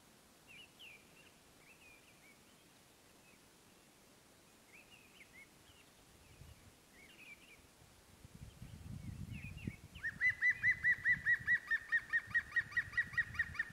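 Faint bird chirps, then for the last few seconds a bird calls a loud, fast run of evenly repeated whistled notes, about six a second. Underneath, from about halfway, a low wet squishing from hands kneading marinated raw chicken pieces in a clay pot.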